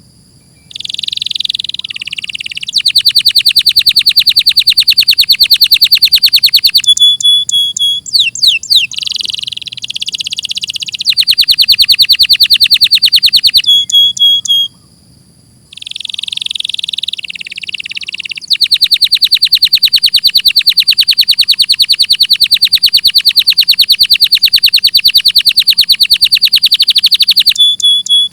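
Domestic canary singing: long, very fast trills of rapidly repeated notes alternating with shorter buzzy and whistled phrases, with two short pauses, one at the start and one about halfway through.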